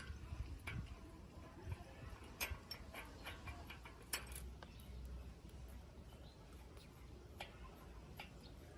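Scattered light clicks and taps, several a second at first and thinning out later, over a faint low hum.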